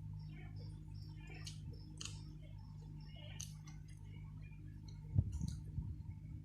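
Light, scattered clicks and taps of someone eating instant noodles, with utensils on the bowl and mouth sounds, over a steady low hum; a dull knock comes about five seconds in.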